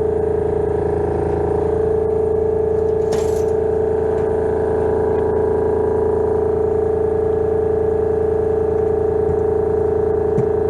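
Honda Lead 100 scooter's two-stroke engine running steadily at a constant speed, with a short rattle about three seconds in. The noise is suspected to come from a worn crankshaft bearing.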